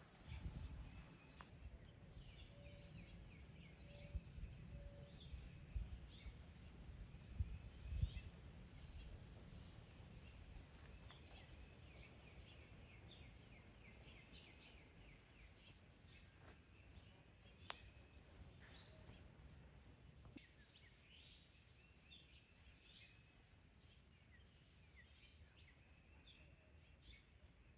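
Faint birdsong: many short chirps and calls from several small birds. A low rumble with a few knocks sits under it for the first eight seconds.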